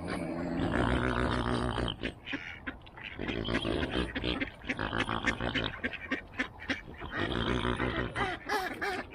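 Ducks and other waterfowl calling, rough nasal calls overlapping one another almost without pause.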